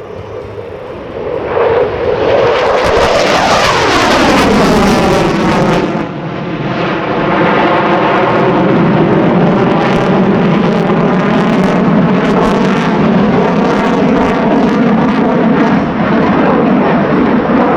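A McDonnell Douglas F-15C Eagle's twin Pratt & Whitney F100 turbofans in a low afterburner pass. The jet noise swells to very loud about two seconds in, with a sweeping, falling tone as the jet goes by, then stays loud with a ragged crackle as it moves away.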